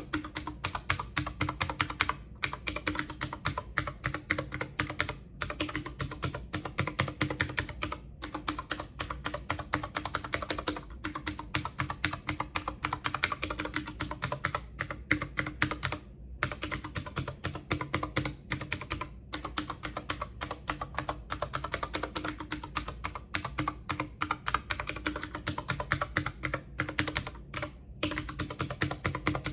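Rapid typing on a computer keyboard, a dense run of key clicks with only brief pauses.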